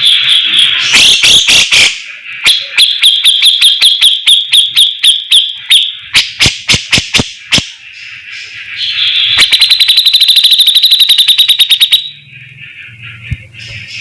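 Songbird song of the bird kept in Indonesia as the 'fighter', played as a masteran tutor recording: clusters of sharp clicking notes, a run of high whistled notes at about five a second, then a faster trill of about ten notes a second for a couple of seconds, stopping abruptly near the end.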